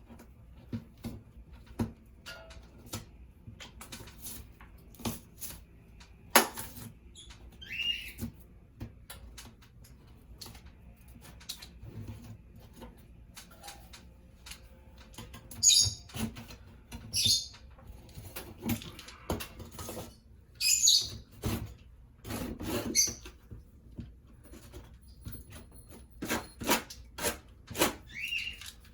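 Irregular taps, clicks and short scraping strokes of hand work on a drywall ceiling, with a few brief high squeaks.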